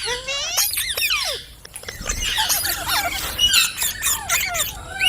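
Indian ringneck parakeet chattering in rapid squeaky calls and quick up-and-down whistles, with a short pause about a second and a half in and a held whistle near the end.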